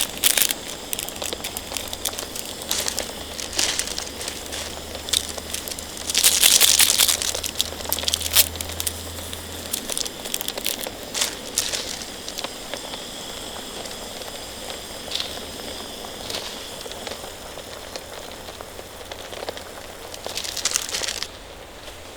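Crinkling, rustling handling sounds in several loud bursts, the longest a few seconds in, with sharp crackling ticks between them over a steady hiss.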